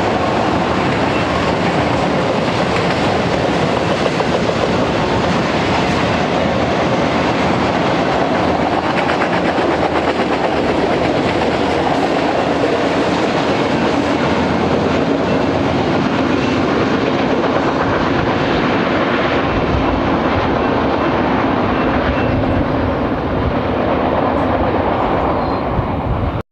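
Freight train of autorack cars rolling past: the steady noise of steel wheels running on rail and the cars moving, which cuts off suddenly at the end.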